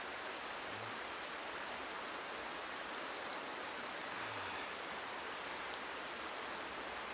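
Steady rushing of a nearby river, with one faint click about six seconds in.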